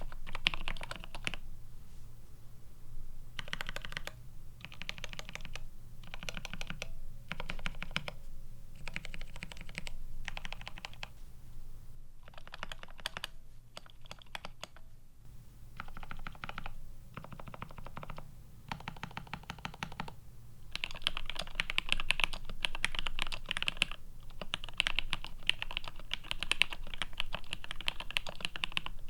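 Typing on a plateless, PCB-mounted GRID650 mechanical keyboard with GMK keycaps and linear switches: rapid key clicks in bursts with short pauses, on Gateron Ink V2 switches. About 21 seconds in it changes to denser, slightly louder continuous typing on Alpaca V2 linear switches.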